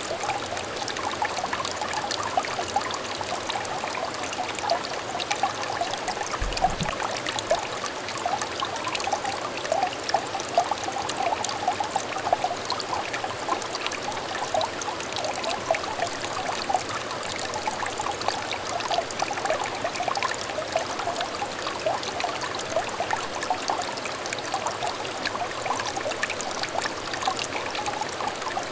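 Small stream trickling steadily over stones, a continuous babbling with many small bubbling gurgles. A brief low bump sounds about six and a half seconds in.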